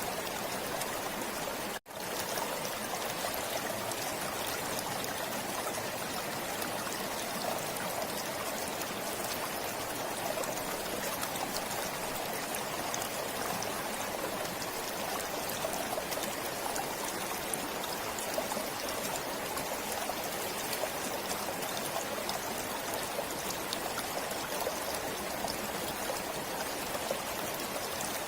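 Forest stream flowing steadily over rocks, a continuous even rush of water. It cuts out for a split second about two seconds in.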